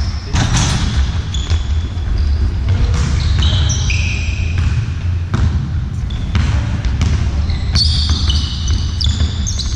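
Indoor court game: many short, high-pitched shoe squeaks on a sports-hall floor, with a ball bouncing and a steady low rumble of the hall.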